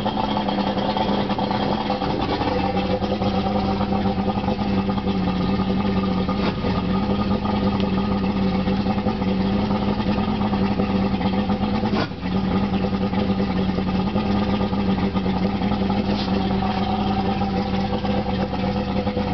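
Mercury 135 V6 two-stroke outboard motor running steadily at an even speed, with one brief click about twelve seconds in.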